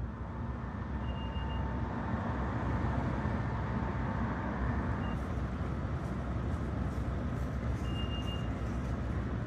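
Utsunomiya Light Rail HU300 low-floor tram running at the stop with a steady low rumble. Short high electronic beeps sound about a second in and again near the end, with a very brief one midway.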